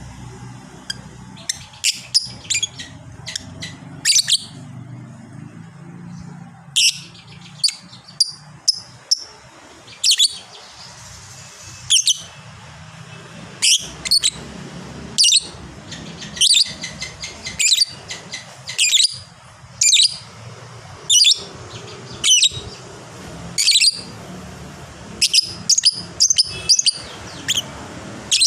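Lovebird calling in short, shrill, high-pitched chirps, singly and in quick clusters every second or two.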